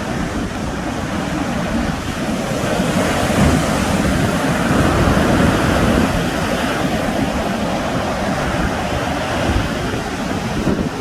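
Sea waves breaking and washing on the shore, with wind buffeting the microphone. The surf swells louder for a few seconds in the middle.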